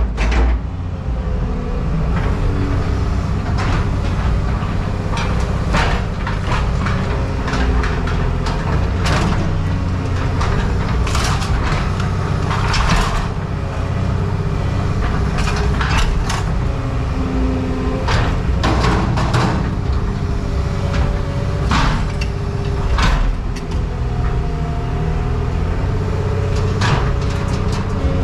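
Heavy scrap-handling machinery with an engine running steadily, with repeated sharp clanks and bangs of scrap metal being handled, some close together.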